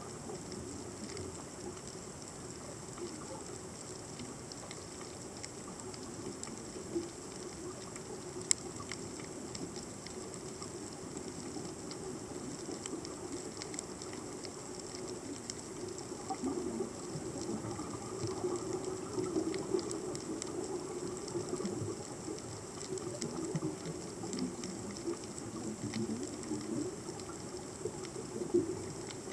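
Underwater ambience on a reef heard through a camera's underwater housing: a steady crackle of many faint scattered clicks over a low rumbling hiss, with one sharper click about eight seconds in.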